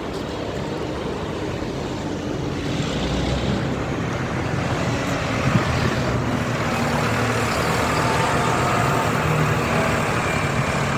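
Engines of heavy vehicles in a road run going by, a steady engine drone over road noise that grows louder over the first half.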